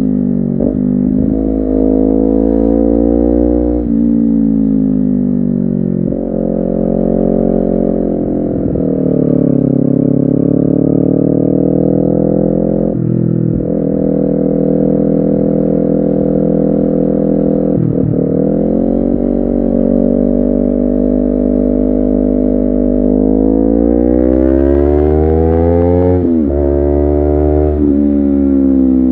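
Honda CBR250RR two-cylinder engine and exhaust under way. The revs climb and fall again and again, with short breaks where the gears change, the clearest a sharp drop about 26 seconds in.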